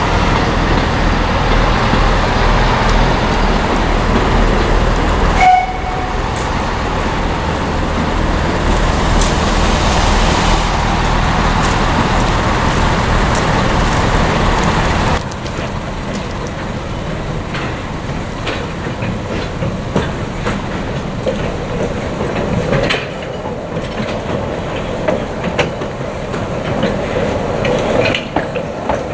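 Narrow-gauge steam-hauled train running, a steady rumble with wheel clatter. About halfway it drops abruptly to a quieter rolling sound with scattered clicks.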